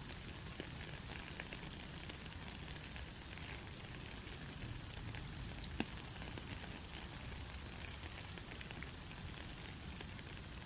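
Steady white noise for lulling a baby to sleep: an even, rain-like hiss with a fine crackle running through it. Two sharper clicks stand out, one about six seconds in and one near the end.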